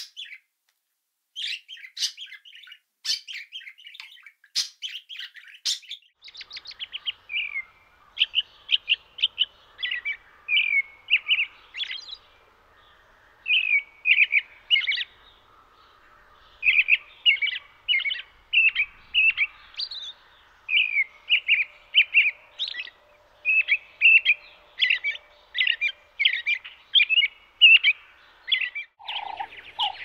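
Small birds chirping: sharp, high chirps for the first few seconds, then a long run of quick repeated chirp phrases. A different set of lower notes starts near the end.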